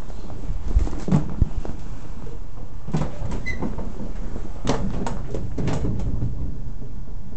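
Scattered knocks, clicks and clunks, with a brief high squeak about three and a half seconds in, over a steady low rumble: mechanical handling noises rather than a running engine.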